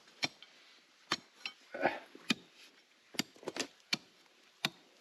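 Stones being struck and knocked together as rock is broken apart: about ten short, sharp knocks at an uneven pace.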